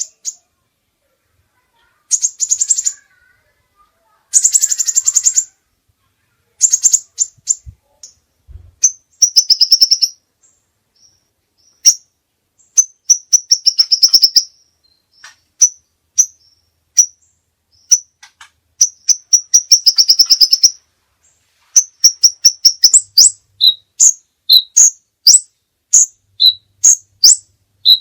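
A songbird singing loudly in separate high-pitched phrases: rapid buzzy trills lasting about half a second to a second and a half, broken by short pauses. About two-thirds of the way through, the song changes to a steady run of short sharp chirps, roughly two a second, some with a lower note.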